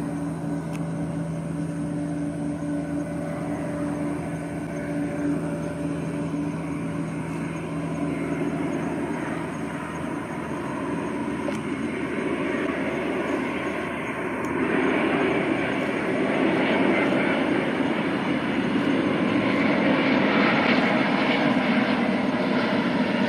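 Airbus A350-900 with Rolls-Royce Trent XWB jet engines on final approach: a steady rush of jet noise that builds, growing clearly louder about two-thirds of the way through as the airliner draws near.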